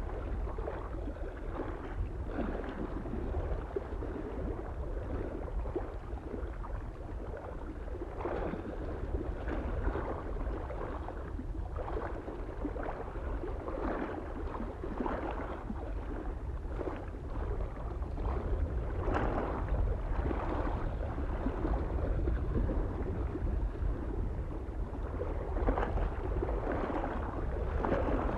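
Small waves lapping irregularly against a lake shore, with a steady low rumble of wind on the microphone underneath.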